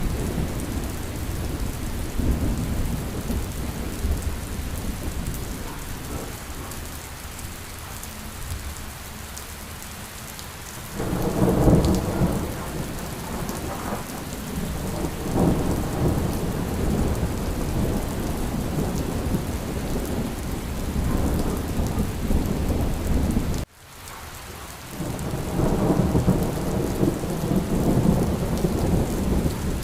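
Steady rain with rolling thunder: low rumbles swell up about a third of the way in and again near the end. The sound cuts out for an instant about three-quarters through.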